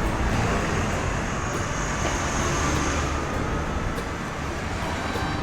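Road traffic: cars passing by, a steady rush of engine and tyre noise.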